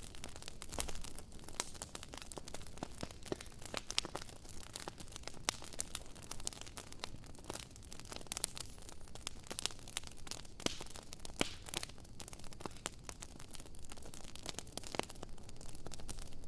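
Campfire crackling: irregular sharp pops and snaps over a steady soft hiss.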